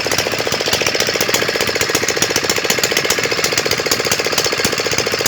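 A 178F air-cooled single-cylinder diesel engine from a mini tiller, running steadily with a rapid, even knock.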